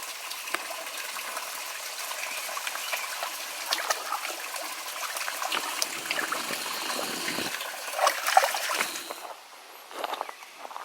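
Small brook trickling steadily over stones, with scattered small splashes; the water sound drops away near the end.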